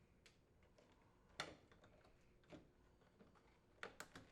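Faint knocks and clicks of a dishwasher's outer door panel being handled and fitted against the control panel: one clearer knock about a second and a half in, and a few quick taps near the end.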